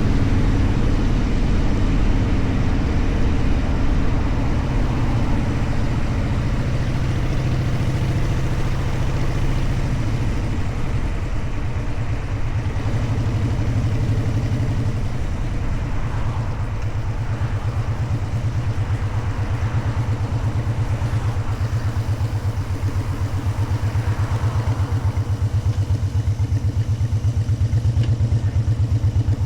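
Motorcycle engine running steadily on the road, its firing pulses growing more distinct and even near the end.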